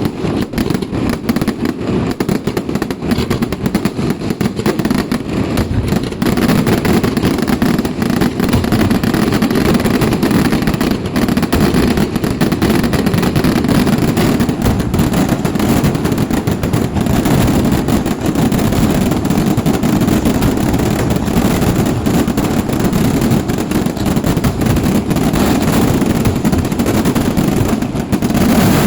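A long, dense barrage of fireworks: firecrackers banging in rapid unbroken succession like machine-gun fire, growing louder about six seconds in.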